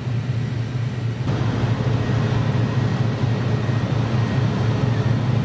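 A boat engine running with a steady low drone and a broad rushing noise over it.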